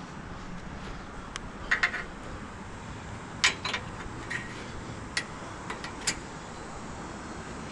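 Light metallic clinks and clicks, about ten sharp taps with pauses between them, as bungee cord hooks are fastened over a load of scrap metal.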